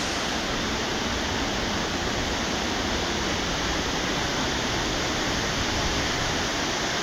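Waterfall in full spate after heavy rain, its water rushing down an angled rock wall into a splash pool: a steady, even roar.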